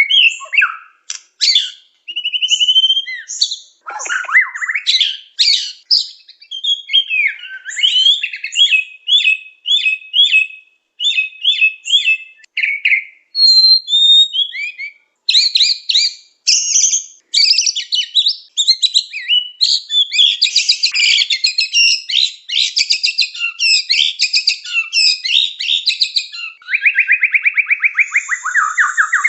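White-rumped shama singing a long, varied song of quick whistled phrases and chattering runs with short pauses between them. Near the end it breaks into a fast, evenly repeated trill.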